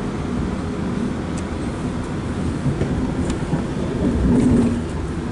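Passenger train running, heard inside the carriage: a steady low rumble of wheels on rail, with a few faint ticks and a louder swell about four seconds in.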